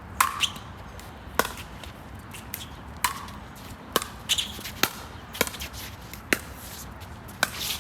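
Pickleball rally: about ten sharp pops at uneven spacing from paddles striking the hollow plastic ball and the ball bouncing on the court.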